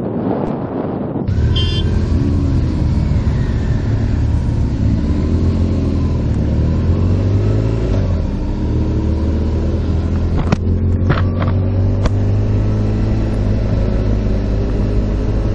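Motorcycle engine running under way, its pitch rising and falling with the throttle. It comes in suddenly about a second in, and a few sharp clicks sound about two-thirds of the way through.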